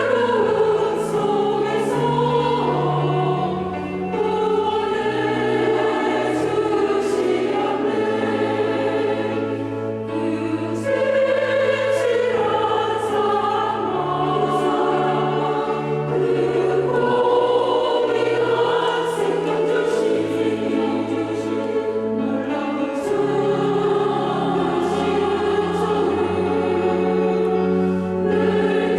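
Church choir singing a sacred anthem in several parts, with long held chords that move from one to the next.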